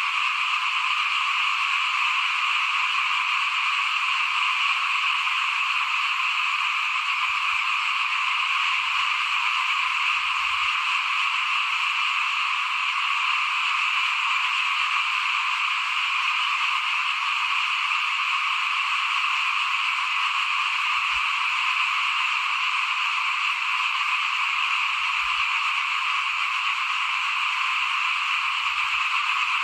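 A dense, steady chorus of many small frogs (khiat, rice-field frogs) calling at once, blending into a continuous high din with no pauses.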